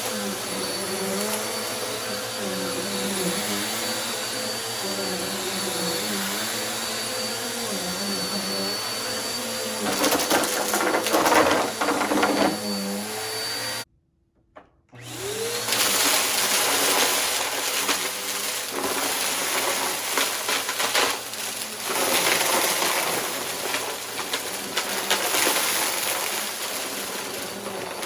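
Bissell upright vacuum running over rugs, crackling loudly as it sucks up dry mess-test debris for a few seconds past the middle. The sound cuts out for about a second, then comes back with a rising whine and more crackling pickup.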